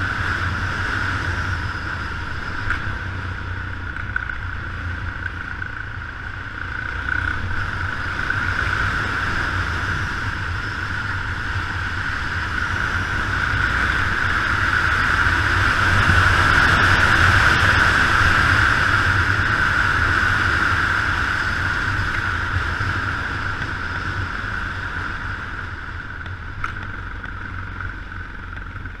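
Yamaha XT 600 single-cylinder engine running as the motorcycle is ridden, under the rush of wind and the hiss of tyres on a wet road. The sound swells louder past the middle and then eases off.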